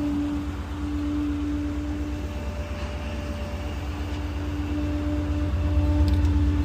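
A small Ford F-550 rear-loader garbage truck running: a steady low engine rumble with a constant hum over it, growing louder near the end.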